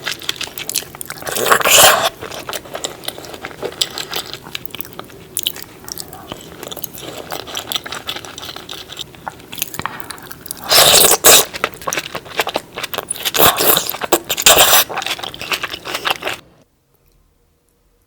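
Close-miked eating of cheesy seafood: crunching, chewing and biting, with louder crunchy bites about two seconds in and again twice in the second half. The sound cuts off suddenly near the end.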